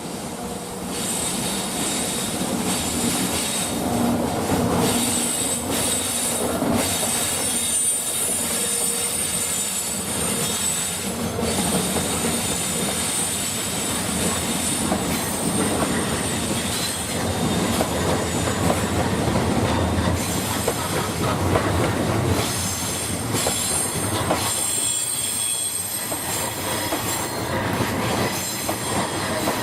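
Railway train rolling through on the tracks, its wheels squealing with a high ringing and clattering over the rails.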